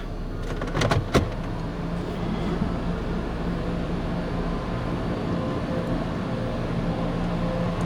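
Belanger Vector car wash dryers blowing, a steady rushing blower noise with a low hum. A couple of brief clicks sound about a second in.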